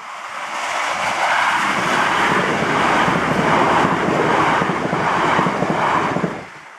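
Irish Rail diesel passenger train passing at speed over a level crossing: a loud rush of wheels on rail with rapid clatter. It swells over the first second, stays loud for about five seconds, then cuts away quickly near the end as the train clears.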